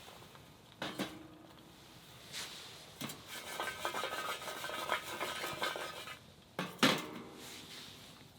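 Metal cookware and cutlery clinking and rattling: a couple of clinks about a second in, a run of clattering from about three to six seconds, then two sharp clinks near the end.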